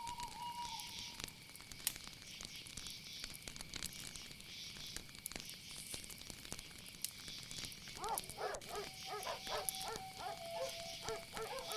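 Night nature ambience: a steady high-pitched chorus of insects with scattered clicks. About eight seconds in, a quick run of short rising-and-falling animal calls begins.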